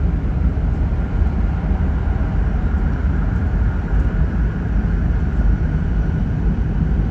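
Steady running noise inside a Joetsu Shinkansen bullet train car: a loud, even low rumble with a hiss over it.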